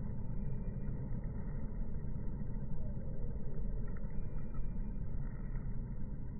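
Steady low background rumble with no clear single source, with two faint, brief high tones near the start and again past the middle.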